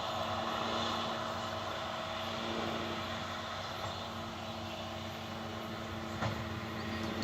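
Farm machinery running steadily: an even engine drone with several held tones, and a small knock about six seconds in.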